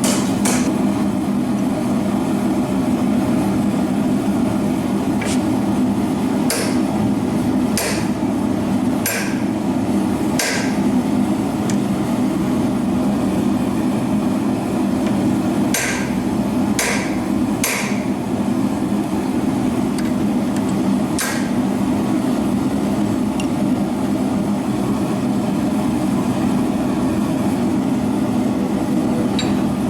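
Hammer blows on hot iron at the anvil, about ten sharp strikes that come in irregular bunches, over the steady loud noise of a running forge.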